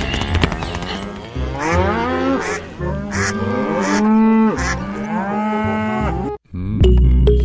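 Cattle mooing: a run of short calls, each rising and falling in pitch, over a low steady bass. The sound cuts out suddenly for a moment near the end.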